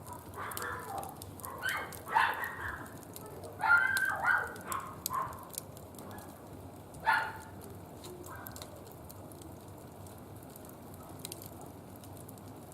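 Wood fire crackling with sharp little pops in a barbecue grill, with a string of short, high-pitched calls over the first seven seconds.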